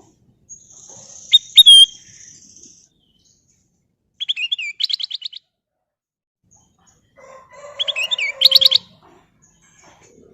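Kutilang emas, a bulbul, singing three short phrases of quick, high whistled notes a few seconds apart.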